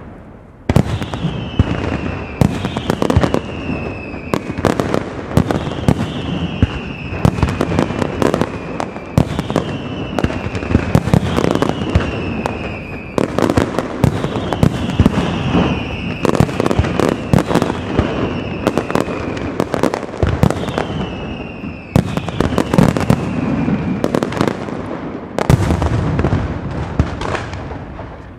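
Castillo firework display: a dense, continuous barrage of bangs and crackle. Whistling shells recur every second or two, each whistle falling in pitch. The barrage starts just after a brief lull.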